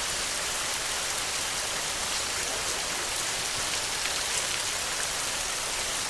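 Rain falling steadily: an even hiss with faint ticks of individual drops.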